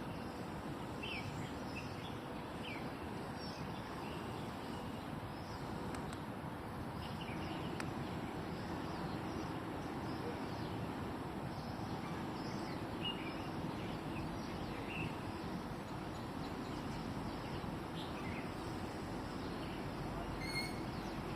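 Birds chirping: scattered short calls over a steady rushing background noise, with a sharper call near the end.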